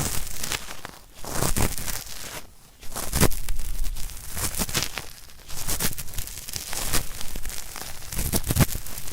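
Cotton swab scrubbed firmly inside an ear, scraping at hard earwax: scratchy, crackling strokes in uneven bursts with short lulls between them.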